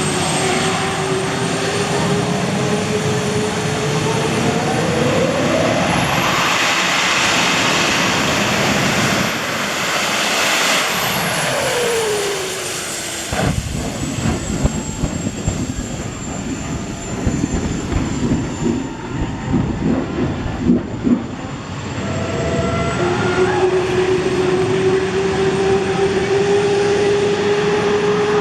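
Monster truck engine revving hard: the pitch climbs steeply, holds high for several seconds, then drops and cuts off. A rough, uneven stretch of engine noise follows, before the engine revs up again and climbs slowly near the end.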